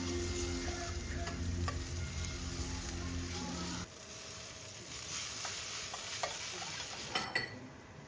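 Food frying in a pan, a steady sizzle with a few light clinks, over a low machine hum that cuts off about four seconds in.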